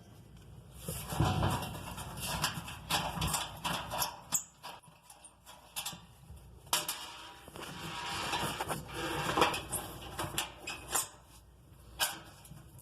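A screwdriver and sheet-metal oven parts being worked by hand as screws at the back are taken out and a plate inside the gas oven is loosened: irregular clicks, knocks and scrapes of metal.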